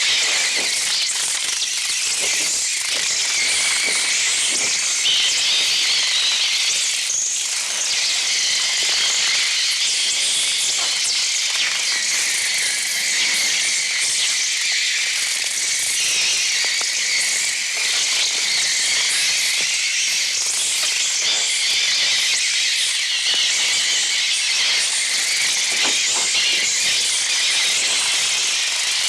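A swarm of sparrows twittering and fluttering in a room, a dense, steady, high-pitched chatter of many birds with no pause.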